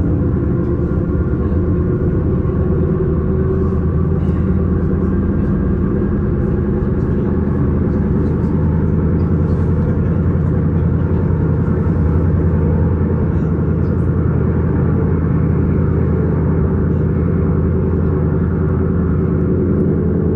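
S-Bahn electric train running, a steady low rumble with no change in level.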